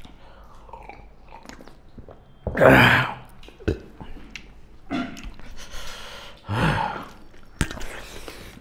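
Close-up chewing, biting and smacking mouth noises of people eating spicy pork curry and rice by hand, with small clicks throughout. Two louder mouth sounds stand out, about three seconds in and again about seven seconds in.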